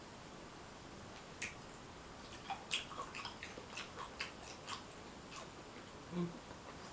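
Close-miked mukbang eating sounds from a seafood boil: a run of small wet clicks and crackles, followed by a brief low sound near the end.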